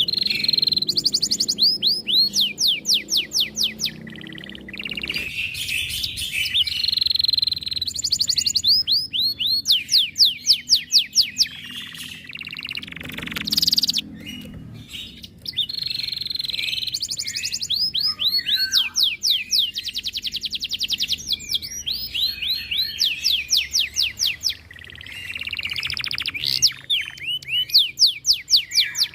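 Domestic canary singing a long, loud song of rapid trills and rolls: phrases of quickly repeated sweeping notes, with short pauses between phrases.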